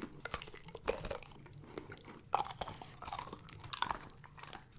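Close-miked chewing of chocolate, with irregular crunches and soft mouth sounds.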